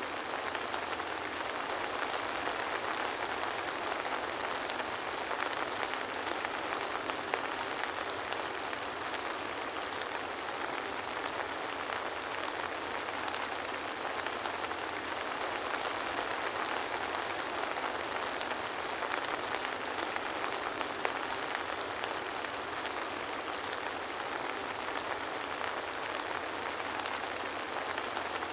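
Soft rain falling steadily: an even, unbroken hiss of many fine drops, with no thunder.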